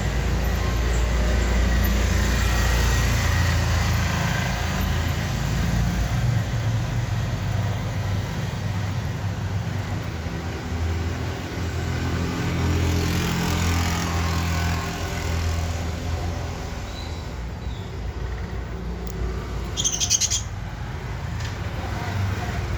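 Steady low rumble of background noise, with a budgie giving a short burst of chirps about 20 seconds in.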